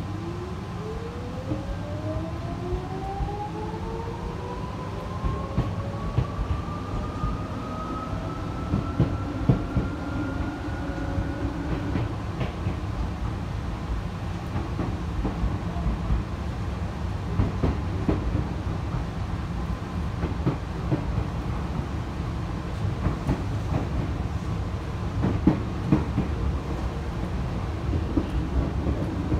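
Tokyu 8500 series commuter train accelerating, heard from inside the passenger car: the traction motors' whine rises steadily in pitch for about twelve seconds and then stops. After that there is the rumble of the wheels on the rails, with scattered clacks over rail joints.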